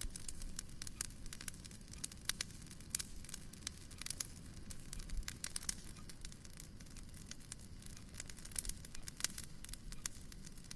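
Wood fire crackling in a fireplace: irregular pops and snaps over a low, steady rumble.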